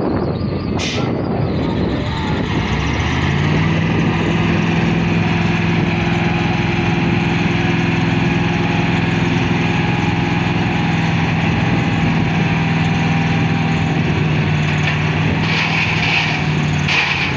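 Heavy truck's diesel engine running, stepping up to a higher steady speed about three seconds in and holding there until near the end. A short hiss of air comes under a second in.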